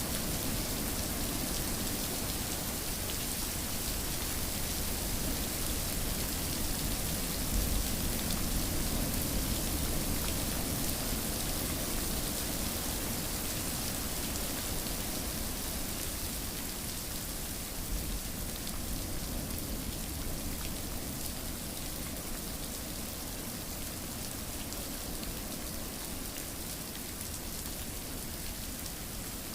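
Steady rain falling, an even hiss of drops on surfaces, swelling slightly about eight seconds in.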